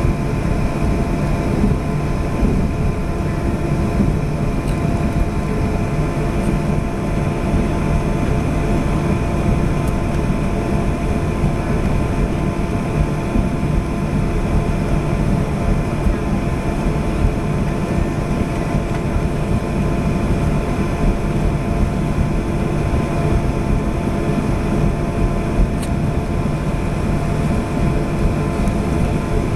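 Jet airliner cabin noise: a steady engine and airflow rumble with several steady whining engine tones over it.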